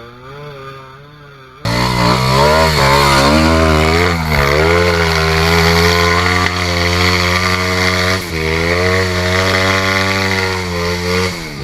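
Dirt bike engine revving hard under load on a steep hill climb, its pitch rising and falling as the throttle is worked. A fainter engine at first, then the loud engine comes in suddenly about two seconds in.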